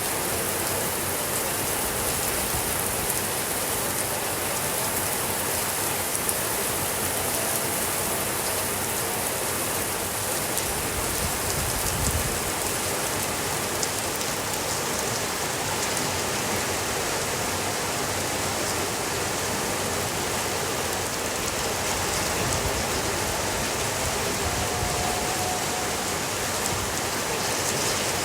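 Steady rainfall: an even hiss of rain with many small drop ticks, holding at the same level throughout.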